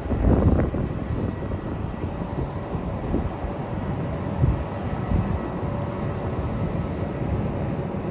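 Airbus A320 jet airliner's engines running steadily at a distance, a constant rush of engine noise with faint steady tones. Wind buffets the microphone briefly about half a second in.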